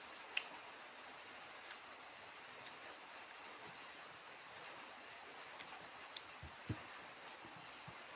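Faint eating sounds: a handful of short clicks and light taps from chewing and utensils, scattered over a low steady hiss.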